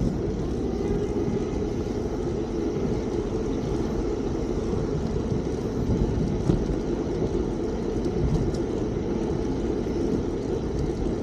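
Steady low rumble of wind and road noise while riding a Fiido D3 Pro electric bike, with a light knock about six and a half seconds in.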